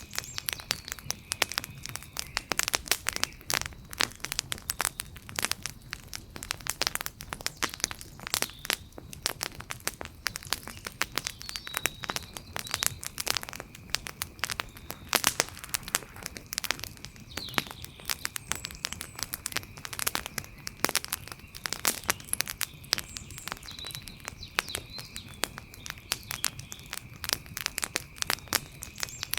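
Campfire crackling: a dense, irregular run of sharp pops and snaps, with a steady high tone underneath and a few short chirps.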